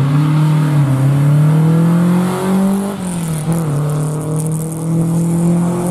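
Rally car engine accelerating hard under load. The pitch climbs for about three seconds, drops at an upshift, then pulls up again in the next gear.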